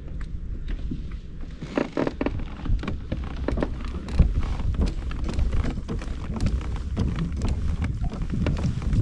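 Wind buffeting the microphone over a Pelican Catch 110 fishing kayak on the water, with splashes and scattered light knocks against the plastic hull. A sharper knock comes about four seconds in.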